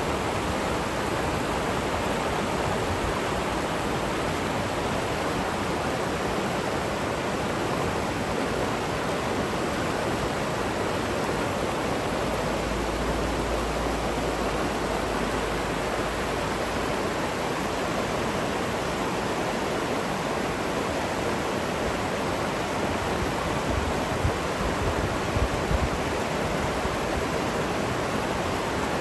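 River water rushing steadily, an even hiss without change, with a brief low rumble about halfway through and a few low bumps near the end.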